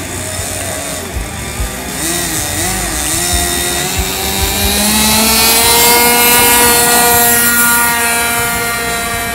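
RC trainer plane's 46-size model engine, running with a wavering pitch at low throttle. About four seconds in it is opened up for takeoff: the pitch rises and it grows louder, holding high and steady, then eases slightly near the end.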